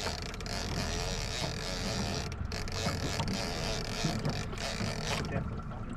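A small boat's outboard motor running steadily while the boat is under way, mixed with water and wind noise.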